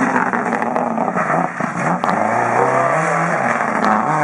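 Rally car engine revving hard, its pitch climbing and dropping with the throttle and gear changes, with a few sharp cracks along the way.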